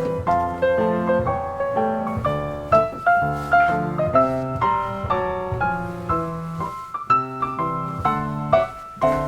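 Background piano music: a gentle melody of struck notes at a steady, even pace.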